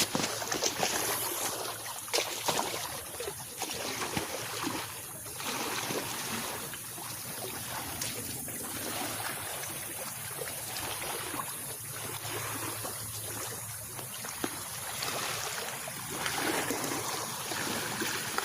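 Small waves lapping and washing against a lakeshore, a steady irregular splashing wash.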